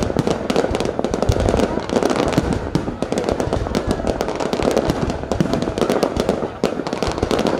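Fireworks display, a dense, continuous crackle of many quick pops close together, with occasional heavier low bangs.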